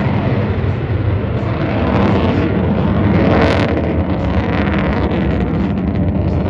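F-35B Lightning II's F135 jet engine running loud and steady, a dense jet noise with rapid crackle, briefly swelling brighter about three and a half seconds in.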